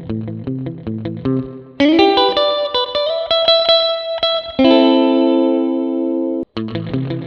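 Electric guitar played surf-style through a Mosky spring reverb pedal, which imitates drippy spring reverb with a slapback-like delay. A fast, evenly picked low riff gives way about two seconds in to brighter, louder notes that slide up into pitch. Then a chord rings out, stops suddenly, and the quick picked riff comes back near the end.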